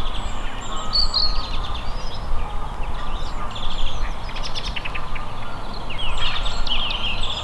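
Outdoor dawn ambience of small birds chirping and singing in short trills throughout, over a steady low rumble.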